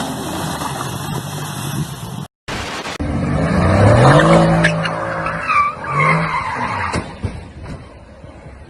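Car engine revving up and tyres squealing and skidding, with a couple of sharp knocks. A short dropout a little over two seconds in breaks the sound.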